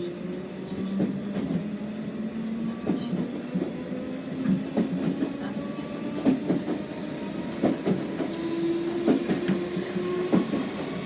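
Merseyrail electric passenger train heard from inside the carriage while running between stations: a steady rumble with a motor whine that rises slowly, and irregular clicks and knocks from the wheels on the track.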